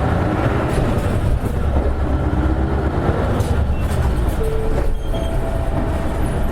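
Isuzu Erga KL-LV280N1 city bus's diesel engine running as the bus pulls away from a stop, heard from inside the cabin as a steady low rumble. A few faint short whines come in about four to five seconds in.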